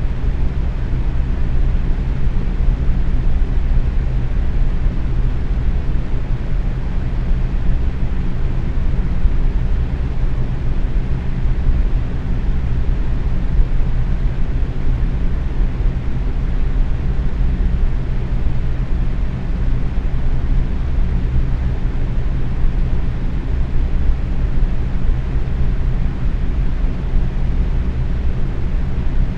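Box fan running steadily at medium speed: an even whoosh of moving air over a low motor hum.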